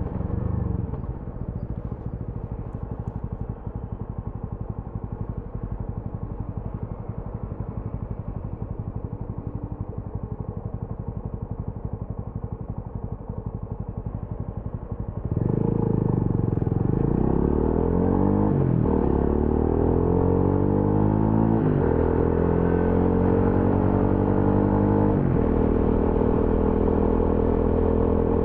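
TVS Apache RTR 200 4V's single-cylinder engine and exhaust, running at low revs for about fifteen seconds. It then opens up and accelerates hard through the gears, the engine note climbing and dropping back at each of three upshifts.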